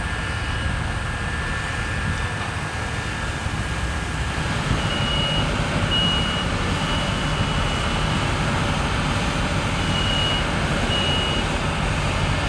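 A construction vehicle's reversing alarm beeping on and off, a few short beeps and one longer one, from about five seconds in, over a steady low rumble of engines.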